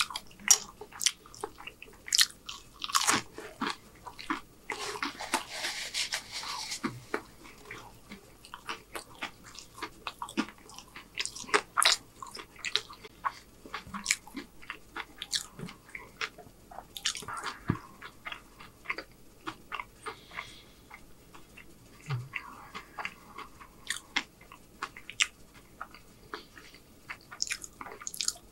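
A person chewing a mouthful of breakfast food, with many irregular wet mouth clicks and smacks and a denser, crunchier stretch about five seconds in.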